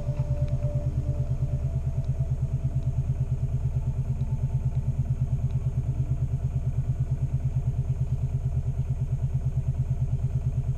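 A yacht's engine running steadily, with a fast, even pulsing beat.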